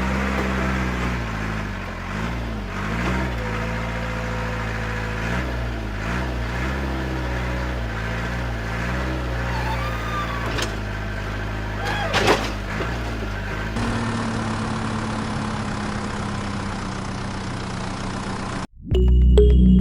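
An engine running steadily at idle for the mini tractor, with one sharp knock about twelve seconds in. Near the end it cuts off abruptly and music starts.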